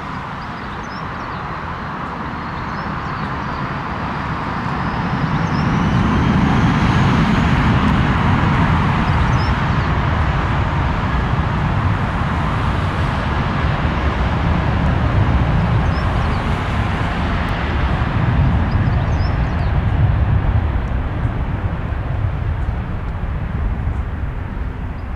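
Jet airliner taking off, its engines at takeoff thrust. The roar builds over the first several seconds and then holds loud, with a faint whine slowly rising in pitch early on.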